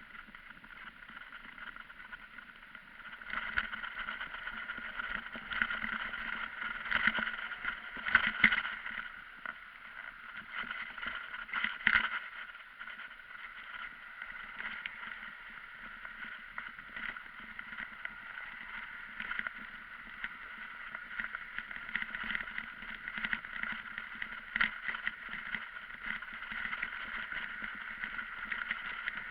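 Steady riding noise from a moving bike, wind and rolling noise, which gets louder about three seconds in. A few sharp knocks or rattles stand out over the middle stretch.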